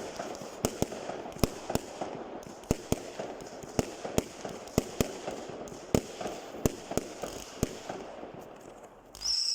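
Fireworks going off: a run of sharp bangs, roughly two a second at uneven spacing, with crackling between them. Just before the end, the bangs give way to a high whistling tone that slowly falls in pitch.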